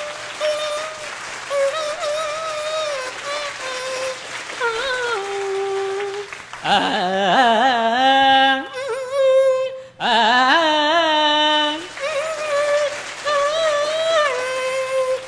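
A mimicry artist's voice imitating a veena playing a Carnatic-style melody, with gliding, bending notes. About seven seconds in it turns louder and fuller, with wide sweeping slides, before settling back into the veena-like line.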